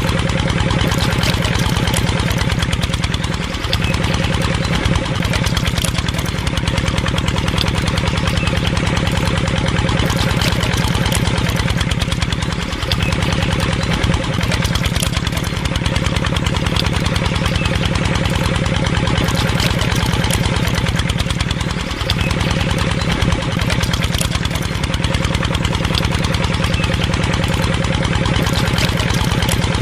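A small engine running steadily with a rapid, even beat. Its pitch briefly dips and slides three times, about nine seconds apart.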